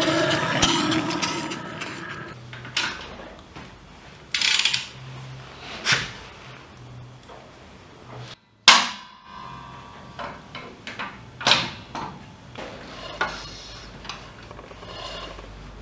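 Irregular knocks and clatters of metal or tools being handled, about a dozen separate hits, with an engine running and fading away in the first two seconds.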